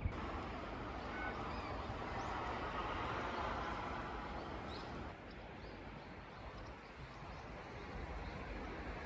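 Outdoor ambience: a vehicle passing in the distance, swelling and then fading over the first five seconds, with faint bird chirps; quieter after that.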